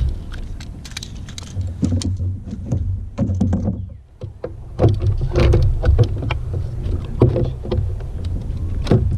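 Irregular knocks and clatter of handling aboard a plastic pedal kayak, over a low rumble. The clatter is thicker in the second half.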